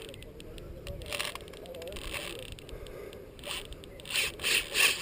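Fishing reel clicking and scraping during the fight with a hooked catfish, with several louder scraping bursts near the end.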